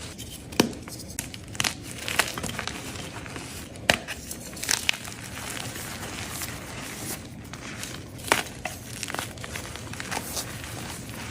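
Dyed gym chalk being crushed, crunching and crumbling in irregular sharp cracks, with a few louder snaps among softer crumbling over a steady hiss.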